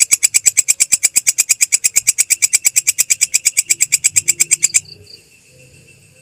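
Belalang kecek katydid calling: a rapid, very regular train of sharp, high chirping clicks, about ten a second, that stops abruptly about five seconds in.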